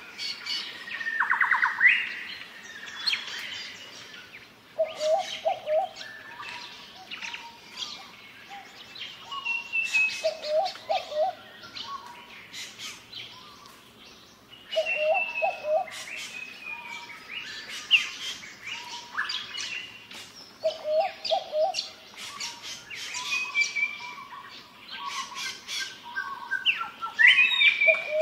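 Several wild birds calling: a low call of three short notes repeats every few seconds, among higher chirps and short falling whistles.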